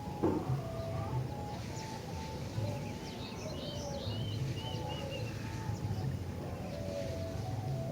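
Kutilang (sooty-headed bulbul) song in short whistled phrases, with a quick burst of higher chirps about halfway through, over a steady low background hum.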